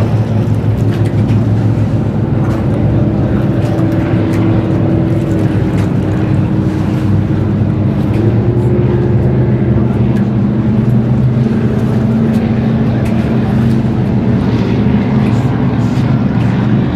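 Performance boat engines running at low speed with a steady, deep rumble, their pitch shifting slightly about eight seconds in.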